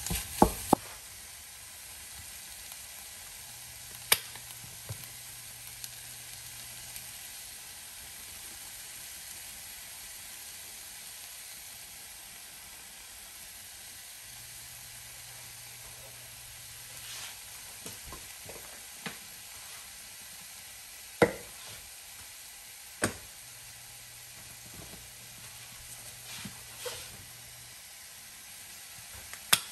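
Ground beef and diced onions sizzling in a frying pan, a steady quiet sizzle. A few sharp knocks and light clicks on the pan stand out over it, the loudest two close together past the middle.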